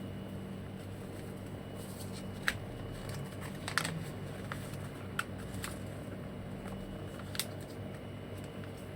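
About six short, sharp clicks and crinkles spread over several seconds, over a steady low room hum.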